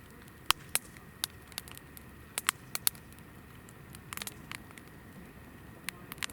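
Hinoki (Japanese cypress) firewood burning, crackling with sharp, irregular pops over a low steady hiss, with a quick cluster of pops about four seconds in.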